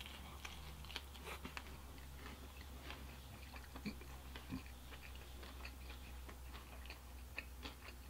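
A person biting into pizza crust and chewing it with the mouth closed: faint, irregular wet mouth clicks and smacks, with a slightly louder one at the bite.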